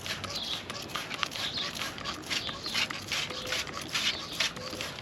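Hand trigger spray bottle squirting wheel cleaner onto a car tyre and rim in quick repeated sprays, roughly three short hisses a second.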